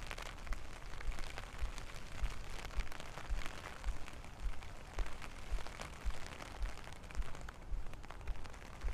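Steady rain with many sharp close drop hits, over low thuds about twice a second.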